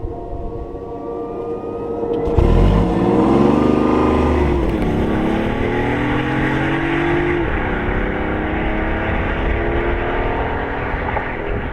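BMW i8's turbocharged 1.5-litre three-cylinder engine accelerating hard. A thin rising whine comes first. About two and a half seconds in, the engine cuts in loudly and revs up, its pitch dropping at two gear changes, about five and seven and a half seconds in, before climbing again.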